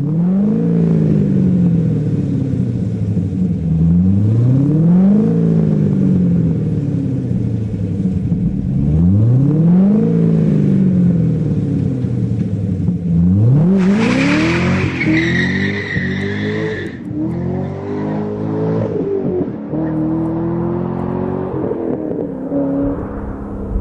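C6 Corvette Z06's LS7 V8 breathing through a B&B Bullet aftermarket exhaust, free-revved: three long revs, each climbing quickly and dropping back slowly. About thirteen seconds in comes a run of quicker, shorter blips, and near the end it settles to an uneven idle.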